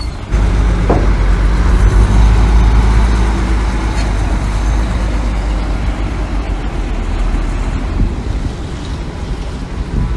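Heavy diesel engine of earthmoving machinery running loud and steady with a deep rumble. It comes in abruptly just after the start and eases slightly after about six seconds.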